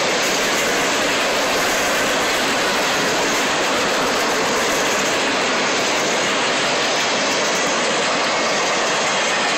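Empty freight flatcars rolling past close by: a steady rush of steel wheels on the rails.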